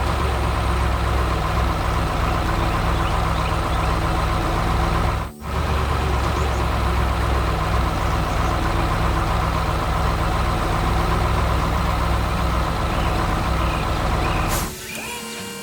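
Heavy excavator diesel engine running steadily, with a brief break about five seconds in. It cuts off about a second before the end.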